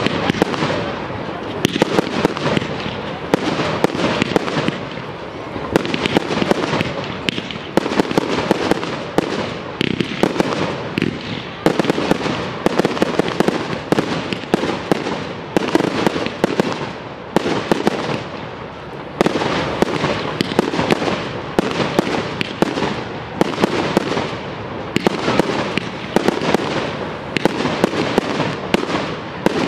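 Fireworks display at full pace: aerial fireworks bursting several times a second over continuous crackling, with only brief lulls between volleys.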